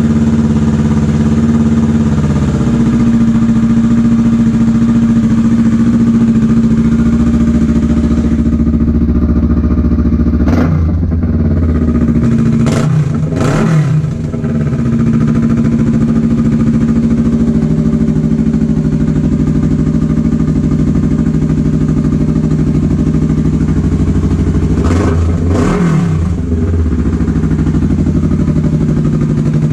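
A Kawasaki Vulcan S's parallel-twin engine idles through a Delkevic slash-cut ceramic silencer on its first run. It is blipped briefly several times, about ten to fourteen seconds in and twice more around twenty-five seconds in.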